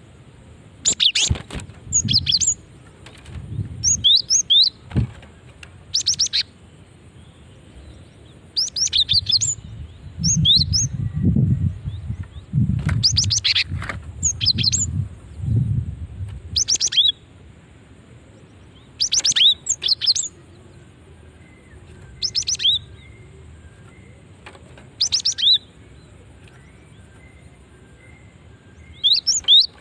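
Female cinereous tit (gelatik batu) calling: short bursts of fast, high, rapidly repeated notes, coming every second or two and spacing out after the middle. A low rumble sits under the calls around the middle.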